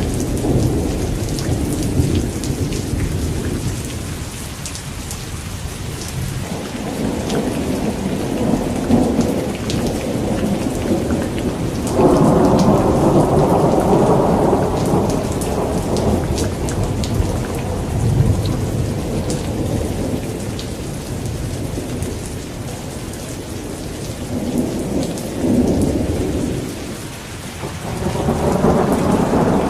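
Thunderstorm: steady heavy rain with rolling thunder rumbling in waves, one loud peal breaking out abruptly about twelve seconds in and another building near the end.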